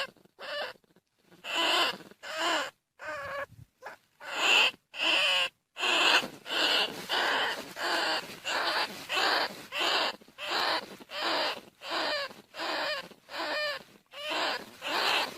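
Bandicoot rat calls used as a hunting lure: short squealing calls repeated about twice a second, with a couple of brief pauses near the start.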